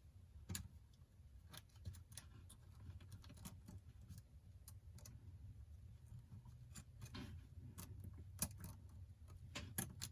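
Faint, scattered light clicks and taps of small phone parts and tools being handled during iPhone 8 reassembly, over a low steady room hum.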